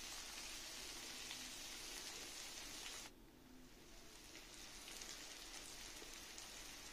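Faint, steady sizzle of shallots, dried red chillies, garlic and tomato frying in oil in a nonstick pan. It cuts out for about a second just after three seconds in and comes back fainter.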